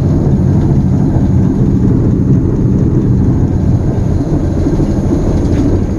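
Diesel-electric locomotive's engine idling steadily, heard from inside the cab while the locomotive stands with its brakes set.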